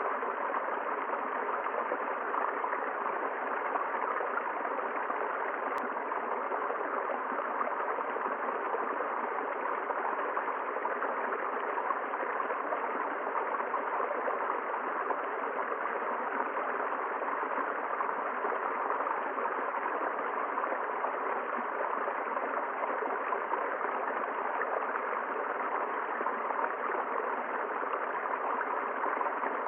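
A river rushing and flowing steadily, an unbroken even rush of water.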